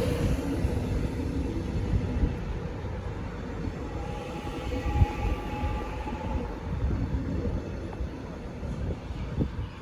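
Metro X'Trapolis electric train running through the station, a low rumble of wheels on rail that slowly grows fainter, with one sharp clack about halfway through.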